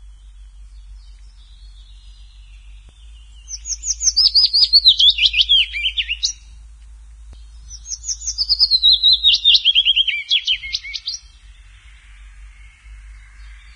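A songbird singing two phrases about two seconds apart, each a quick run of sharp notes stepping down in pitch, with faint twittering between the phrases.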